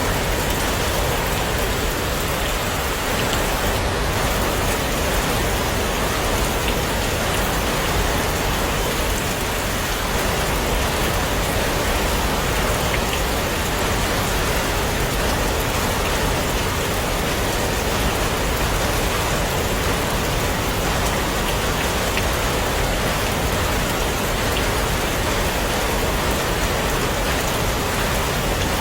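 Heavy rain falling steadily on a surface: a dense, even hiss of drops with no let-up.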